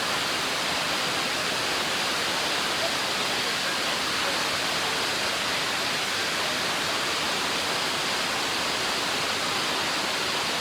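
Large waterfall heard from close at its base: a steady, even rush of falling water and spray.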